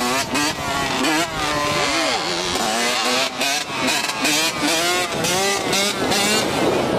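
Dirt bike engines revving, their pitch rising and falling again and again every second or so.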